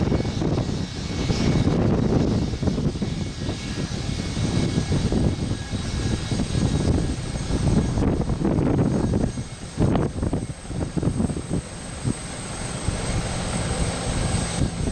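Twin rear-mounted Rolls-Royce BR715 turbofans of a Boeing 717 airliner arriving, a steady high whine over a gusting rumble, with wind buffeting the microphone.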